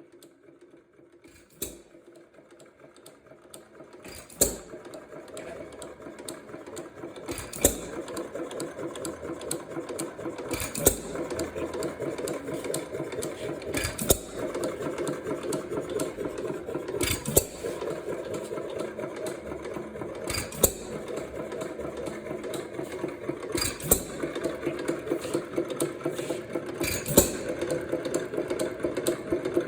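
Reeves Pulley 3 HP hopper-cooled hit-and-miss gas engine running: a sharp firing bang about every three seconds, starting about four seconds in, with a steady rattling clatter of the flywheels, valve gear and igniter trip as it coasts between firings.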